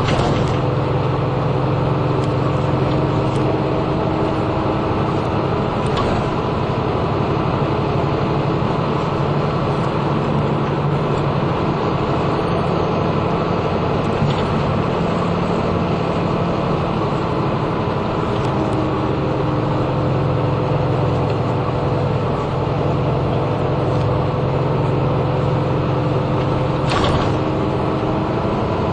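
Route bus driving, heard from inside the cabin: a steady diesel engine drone and road noise, the engine note shifting a little with speed, with a few sharp rattles and clicks from the bus's interior.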